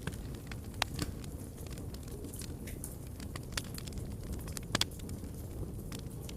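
Wood fire burning in a fireplace: a steady low rumble of the flames with irregular sharp crackles and pops, the loudest twice, about a second in and near the end.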